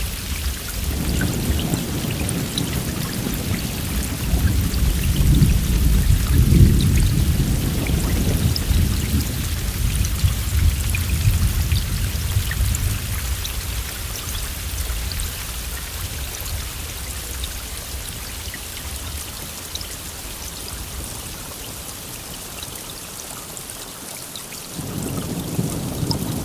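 Steady heavy rain with a long roll of thunder that builds about a second in, peaks several seconds later and slowly fades; a second roll of thunder begins near the end.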